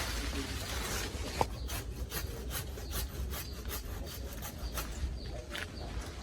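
Hand saw cutting wood: quick, even back-and-forth rasping strokes, about four a second, starting about one and a half seconds in.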